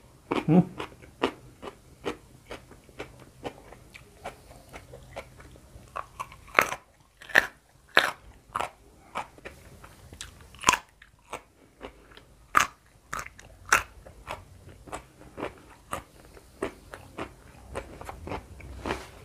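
Close-miked crunching and chewing of raw vegetables and fried food: irregular sharp crunches between softer chewing, with a few louder bites around the middle.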